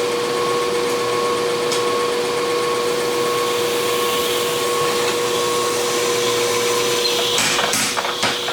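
A forge running with a steady rushing noise and a constant hum. Near the end, sharp hammer blows start in quick succession, the sound of forging the blade.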